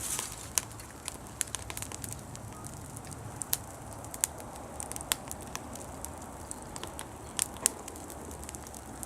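Bonfire of dry fallen leaves crackling: irregular sharp pops and snaps over a low steady hiss of burning.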